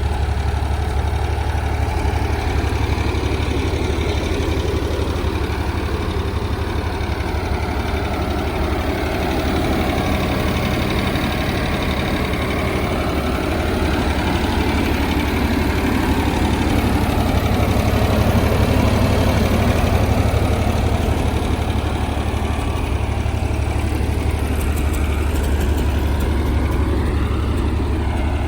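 Ford 3400 industrial tractor's engine idling with a steady drone, running a little louder for several seconds in the middle.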